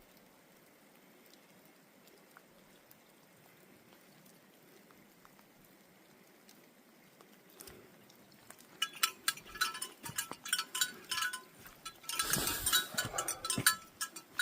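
Faint steady hiss of light rain, then from about nine seconds in the rapid jingling of bear bells carried by a walking hiker, with a louder rustling burst around twelve seconds.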